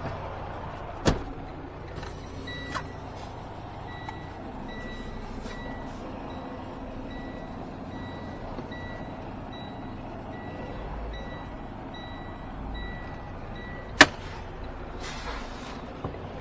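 An electronic warning chime in a semi-truck's cab beeps steadily, about once every 0.8 seconds, for some eleven seconds over the low hum of an idling engine. A sharp click comes about a second in, and a loud bang near the end, at the moment the beeping stops.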